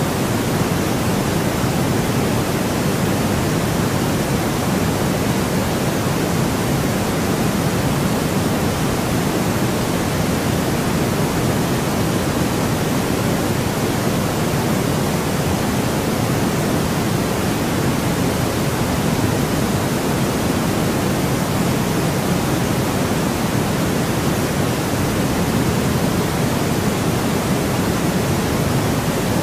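Steady artificial white noise for sleep: an even, unbroken hiss that never changes, fuller in the low end than in the treble.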